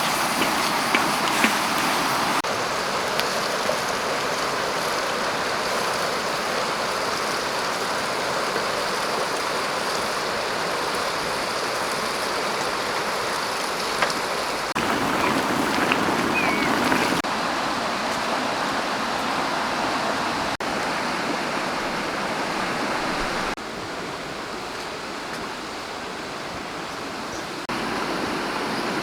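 Running stream water: a steady rushing that changes level abruptly several times.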